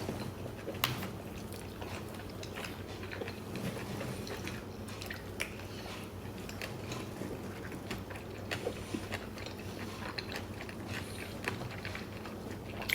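Close-up chewing and biting of tteokbokki, chewy rice cakes and fish cake in sauce, with scattered small clicks and one sharper click about a second in.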